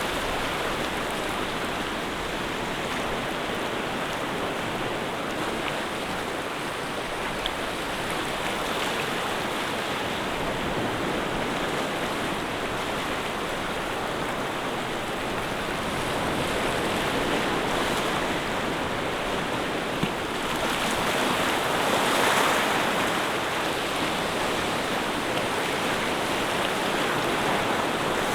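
Rushing water, a steady wash of noise that swells louder for a while about two-thirds of the way through.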